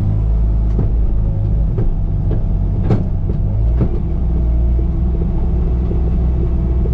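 Bobcat T595 compact track loader's diesel engine running steadily while working, with a handful of sharp knocks and clanks in the first four seconds, the loudest about three seconds in.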